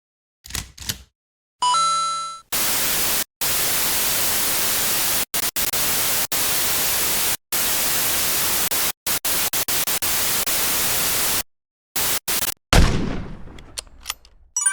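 A run of video-editing sound effects. It starts with two short clicks and a brief ringing chime, then several seconds of TV-static hiss that cuts in and out in choppy stretches. Near the end comes a sudden heavy hit that fades away.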